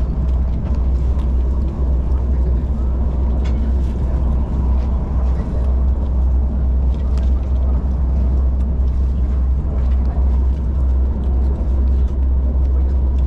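Steady low rumble of a moving passenger train heard from inside the carriage, with a few faint clicks over it.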